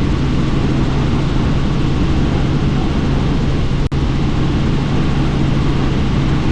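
Helicopter in flight, heard from inside the cabin: a steady loud drone of rotor and engine with a low hum, mixed with wind rush. The sound cuts out for an instant about four seconds in.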